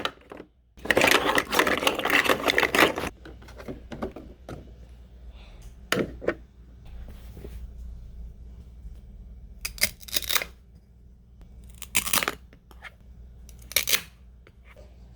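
Toy kitchen play pieces being handled: a rustling, tearing noise for about two seconds early on, then a few scattered sharp taps and clicks.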